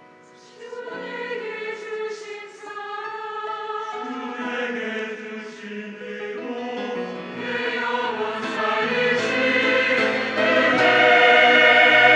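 Church choir singing a sacred anthem, many voices in harmony. They come in softly about half a second in and build steadily to a loud, full passage near the end.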